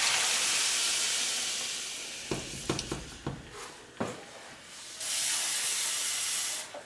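Water poured into a hot saucepan of chopped vegetables hisses and sizzles, fading over about two and a half seconds, followed by a few light knocks and another steady hiss that cuts off shortly before the end.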